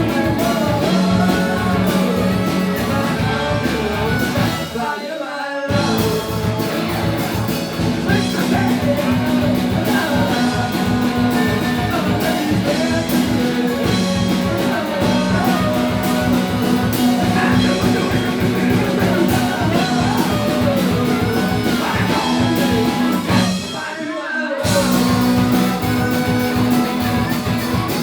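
Live rock band playing with a lead vocal: drums, bass, guitar and singing. The bass and drums drop out briefly twice, about five seconds in and again near the end, then come back in.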